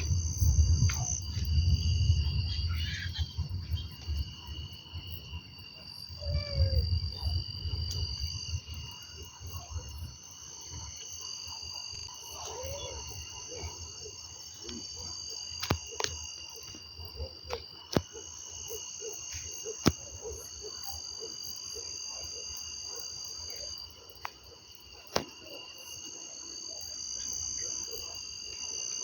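Steady high chorus of crickets or similar insects, with a low rumble in the first few seconds and again about six to eight seconds in, and a few sharp clicks in the second half.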